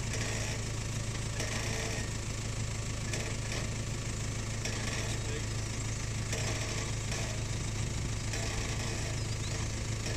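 A four-wheel drive's engine idling steadily with a constant low hum as the vehicle crawls slowly downhill over rocks.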